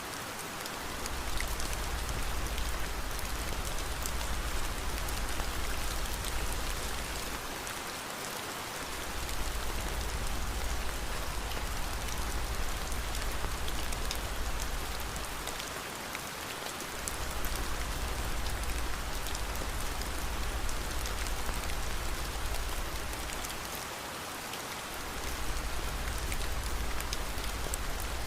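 Steady rain falling, with fine patter of drops and a low rumble underneath that fades out briefly about every eight seconds.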